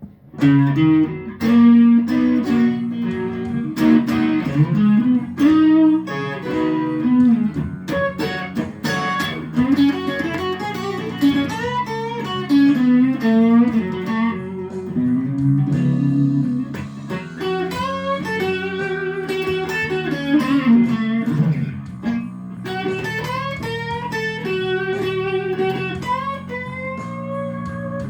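Electric guitar playing a slow blues intro, with many bent notes sliding up and down in pitch over a sustained low accompaniment.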